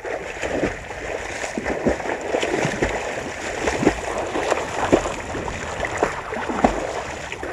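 Water splashing and gurgling, with many small irregular splashes over a steady rush.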